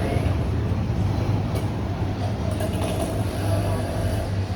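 Steady low rumble of road traffic and vehicle engines, with faint higher tones drifting in about halfway through.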